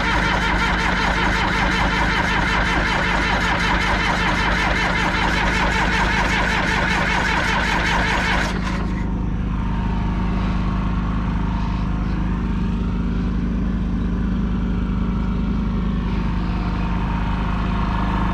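1976 John Deere 450C bulldozer's diesel engine running. For the first eight and a half seconds a loud, dense mechanical clatter rides over it and then stops abruptly, leaving the engine running steadily at a lower, quieter note.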